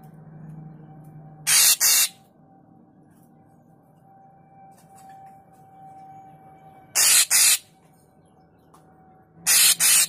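A caged murai papua (deot) gives three loud, harsh, noisy double calls, each about half a second long: one about one and a half seconds in, one about seven seconds in, and one near the end. Between the calls a faint steady hum continues.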